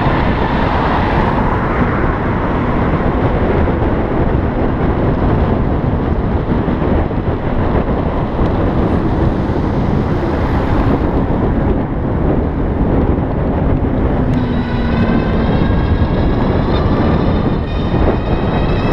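Loud, steady rush of wind and road noise on the microphone of a moving electric bicycle in traffic. From about three-quarters of the way in, a whine climbs steadily in pitch.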